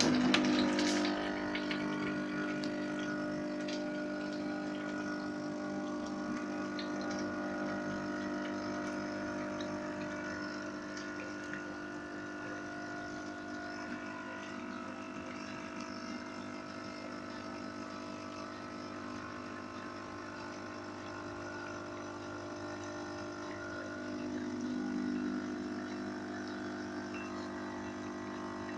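Espresso machine's pump switching on abruptly and running with a steady buzzing hum as water is pushed through the machine during a post-repair test, briefly louder near the end.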